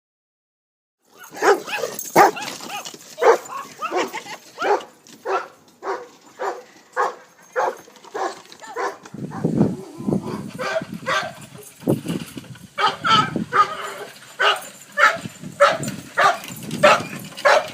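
Dog barking over and over, about two barks a second, starting about a second in and keeping up throughout.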